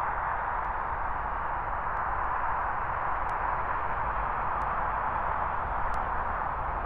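Steady rushing roar of a Boeing 787 Dreamliner's jet engines, holding an even level with no rise or fall.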